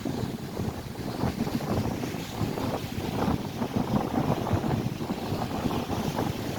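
Strong wind buffeting the microphone over the steady rush of lake waves breaking on the shore.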